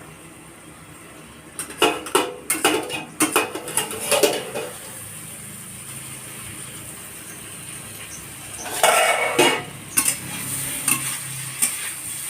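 Potatoes and raw plantain frying in oil in a pan, with a steady sizzle, stirred and scraped against the pan in two bursts of scraping clicks, about two seconds in and again about nine seconds in.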